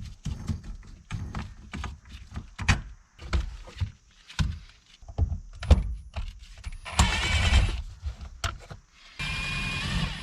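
Clicks, knocks and rattles of plastic trim and small parts being worked loose while a VW MK2 Jetta's center console comes out, with a small electric motor whirring briefly twice, the second time near the end.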